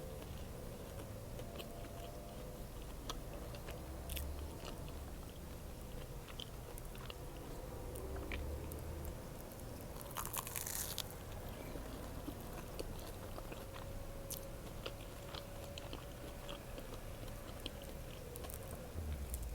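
A person biting into and chewing an egg sandwich: many small mouth clicks, and one louder, longer noise about ten seconds in.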